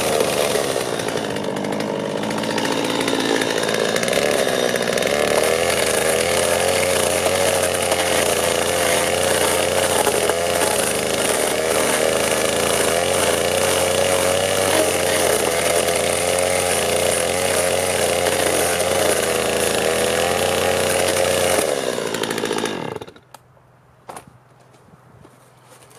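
A power tool motor runs steadily at speed, its pitch wavering slightly as it works the wood, then switches off about 22 seconds in. A few faint knocks follow.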